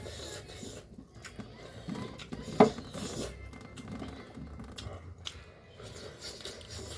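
Close-up eating sounds: scattered small clicks and crackles of chewing, with one louder short sound about two and a half seconds in.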